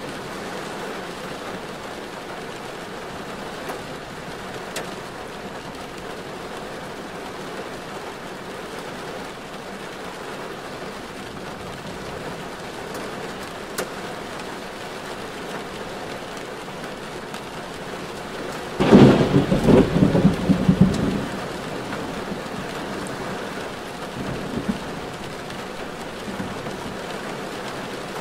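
Steady rain falling on a car as it drives, with a sudden loud rumble about two-thirds of the way through that lasts about two seconds.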